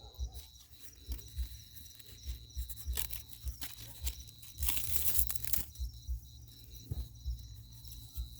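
Crackling and crinkling of dry bark and plastic kindling being lit and handled in a bonfire, with a denser rustling burst about five seconds in, over a steady cricket trill. Low thumps of handling on the microphone run underneath.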